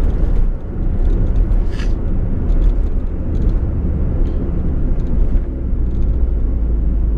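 Fiat Uno Mille's engine and tyre noise heard from inside the cabin while driving, a steady low rumble.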